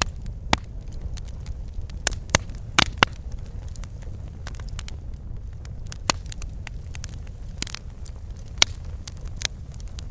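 Fireplace fire crackling: irregular sharp pops and snaps, a few close together near the start and a couple of louder ones later, over a steady low rumble of the burning fire.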